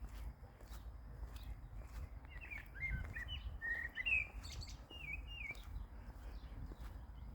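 Small songbird chirping and twittering in quick rising and falling notes, starting about two seconds in and fading out past the middle, over a low steady rumble.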